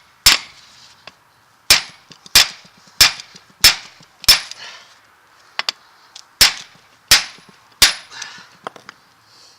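Hammer blows on a truck drive shaft's U-joint yoke, pounding out the U-joint bearing cap. There is a metallic ring after each blow, with a strike about every two-thirds of a second. A run of six heavy blows is followed by a short pause and a few lighter taps, then three more heavy blows and some light taps near the end.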